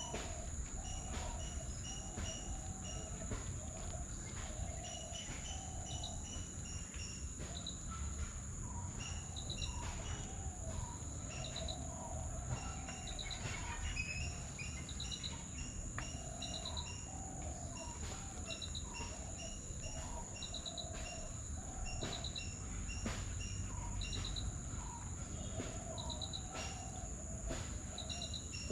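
Birds calling over a steady, high insect drone: a short pulsed call repeats about once a second, mixed with scattered chirps and lower warbling notes, over a low background rumble.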